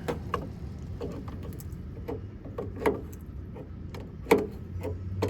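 Irregular metallic clicks and knocks of a wrench working on the engine's belt-pulley nut while it is being tightened, with two louder knocks about three and four seconds in.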